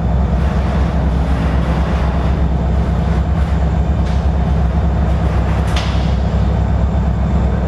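Oil train tank cars rolling slowly past on the rails with a steady, loud low rumble. Two short high-pitched sounds cut through about four and six seconds in.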